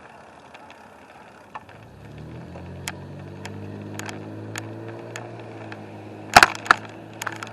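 Scattered clicks and rattles, with a low steady motor hum coming in about two seconds in, then a loud clatter of knocks near the end.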